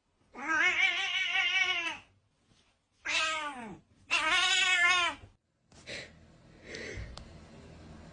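A cat meowing three times. The first is a long meow with a wavering pitch, the second is shorter and falls in pitch, and the third is long again. Fainter, softer sounds follow.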